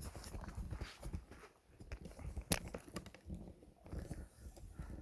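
Pine firewood being handled for loading: scattered wooden knocks and scraping, with one sharp knock about halfway through.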